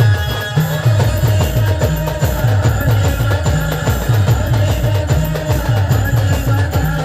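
Timli dance music from a band: a driving drum beat with a loud bass line that steps down in pitch over and over, under a sustained melody.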